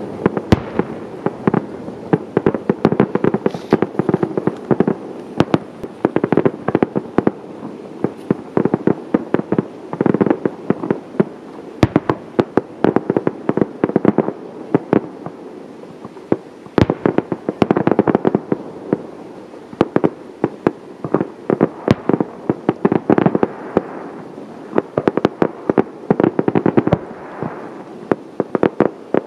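Fireworks going off in a continuous barrage: dense crackling and popping that comes in waves every couple of seconds, with some louder single bangs among them.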